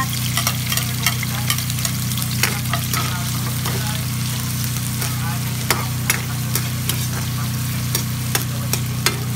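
Chopped red onion and garlic sizzling in hot oil in a wok, stirred with a metal ladle that scrapes and clicks against the pan many times. A steady low hum runs underneath.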